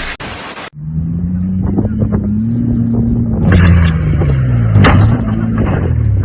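Car engine running, its pitch rising slightly and then falling, with two sharp bangs about three and a half and five seconds in.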